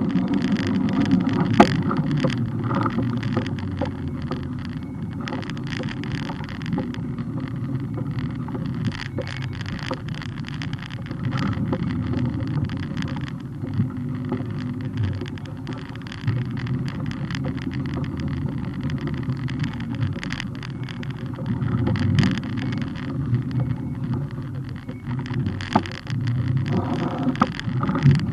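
Steady wind buffeting and road rumble on a camera mounted on a moving bike, with frequent rattles and knocks from the mount over bumps.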